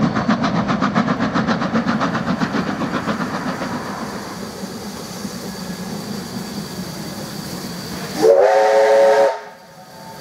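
Steam locomotive A 428, a 1909 4-6-2 Pacific, chuffing in a quick, even rhythm that fades away after a few seconds. About eight seconds in, its steam whistle gives one blast of about a second, several tones sounding together, sliding up briefly at the start and cutting off sharply.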